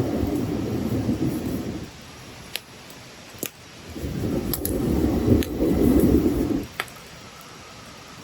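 Wood campfire burning, with about five sharp crackling pops and two low rumbling surges of roughly two seconds each, the first fading about two seconds in and the second from about four seconds to near seven.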